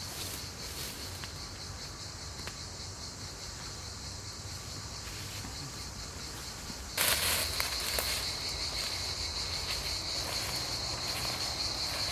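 Steady high-pitched chorus of insects in a forest, a constant buzzing drone with a few faint clicks; it jumps suddenly louder about seven seconds in.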